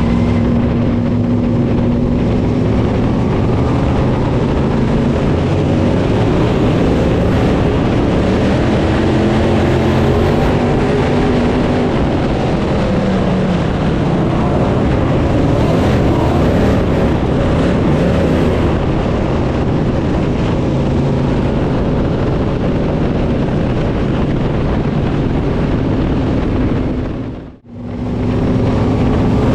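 Dirt crate late model's V8 engine running hard, its pitch rising and falling with the throttle. The sound cuts out briefly near the end, then comes straight back.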